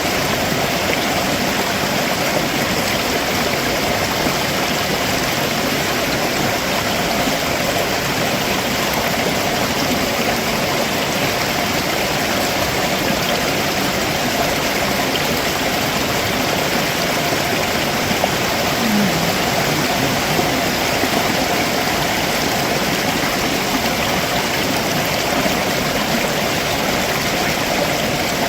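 Stream water running over rocks below a waterfall: a steady, unbroken rushing.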